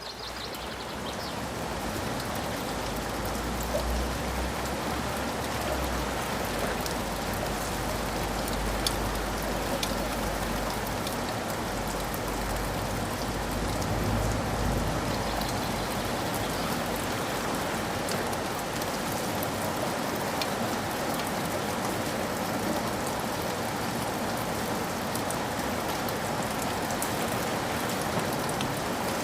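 Steady rain pattering densely on surfaces, with individual drops ticking through it. A low, soft rumble of distant thunder runs under the rain through the first half and fades out about halfway through.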